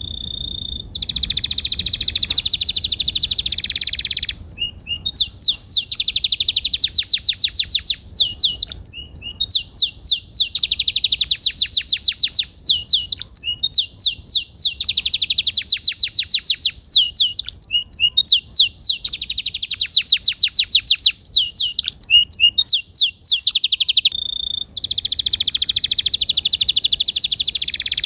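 Canary singing a long, continuous song of fast trills and rolls of rapidly repeated sweeping notes, switching to a new phrase every second or two with only brief pauses.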